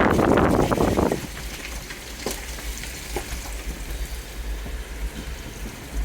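Water splashing and spraying against a Jeep Wrangler as it drives through flash-flood water over the road: a loud hissing rush for about the first second, then a quieter low rumble with a couple of faint knocks.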